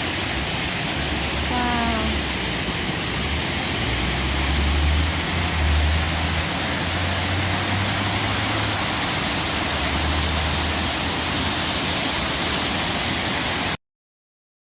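Waterfall rushing steadily, an even hiss of falling water with a low rumble underneath; it cuts off suddenly near the end.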